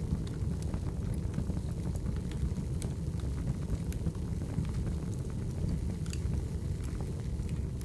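Crackling wood fire: a steady low rumble of flames with irregular sharp pops and snaps.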